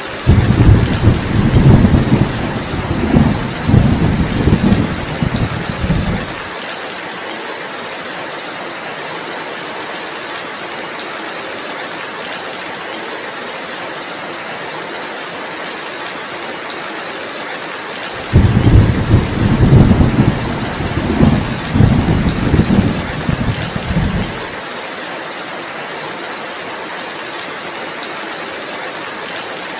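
Steady heavy rainfall hiss, with two long rolls of thunder: one from the very start lasting about six seconds, and another about eighteen seconds in lasting about six seconds. Both cut off fairly suddenly.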